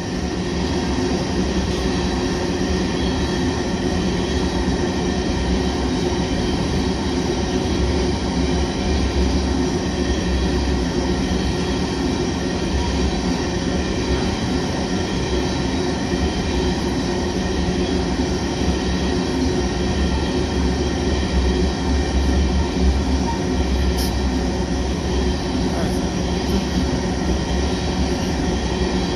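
Freight cars of a long oil train rolling past on the rails: a steady low rumble of wheels and rail noise, with thin steady ringing tones over it.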